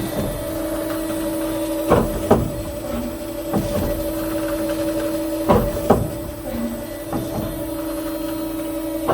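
Maus MA-500 CNC tube rolling and end facing machine running its cycle. A steady hum carries on throughout, and a pair of sharp knocks comes about every three and a half seconds, three times.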